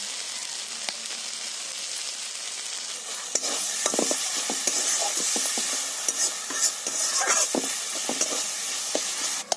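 Curry masala sizzling in hot oil in a pan while a spatula stirs and scrapes it. About three seconds in the sizzling gets louder, with frequent scrapes and knocks of the spatula against the pan.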